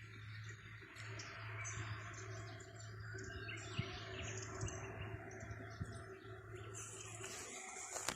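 Birds chirping in short scattered calls over a steady hiss and a steady low hum.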